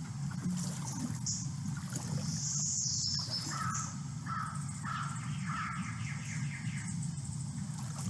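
Swamp nature sounds: a bird calls a quick run of about six harsh notes, about two a second, in the middle, over a steady low hum.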